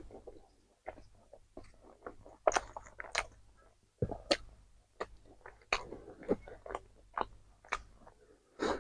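Close-up chewing and biting of crispy fried chicken, with crunching crackles and wet mouth sounds several times a second.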